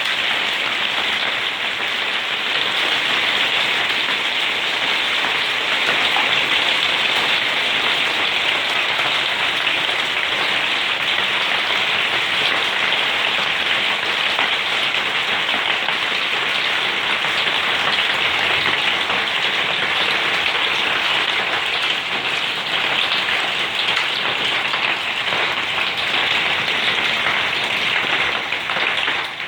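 Hail falling hard: a loud, steady, dense patter of countless small impacts.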